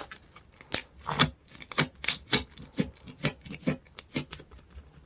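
Tacky slime being pressed and pulled by hand, giving a run of irregular sharp sticky clicks and pops, about two or three a second.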